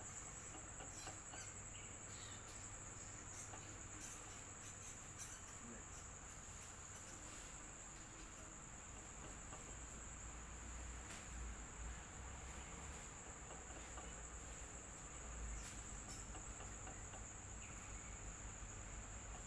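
Electric fan running steadily, with a constant high-pitched whine over a low hum.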